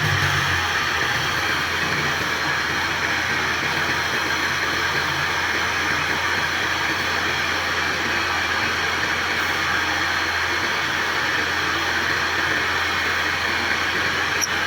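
Steady rushing noise over a constant low hum, unbroken throughout: a wood lathe turning a wooden charpai bed leg.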